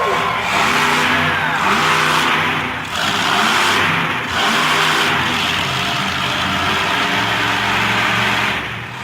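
Monster truck engine running loud and revving hard, with a few brief dips in level.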